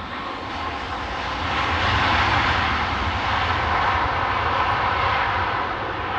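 Jet airliner passing close by, its engine noise swelling to a peak about two seconds in and then easing slowly.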